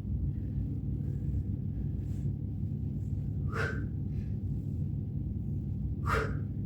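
A person exhaling forcefully twice, about two and a half seconds apart, as with exertion, over a steady low rumble.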